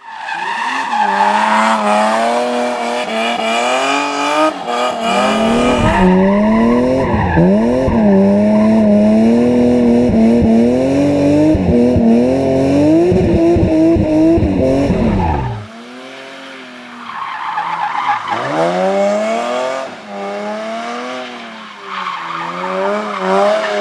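BMW M3 straight-six engine revving hard through an aftermarket sport exhaust, its pitch climbing and dropping again and again. A long, loud full-throttle stretch cuts off abruptly about sixteen seconds in, and shorter, quieter revs follow.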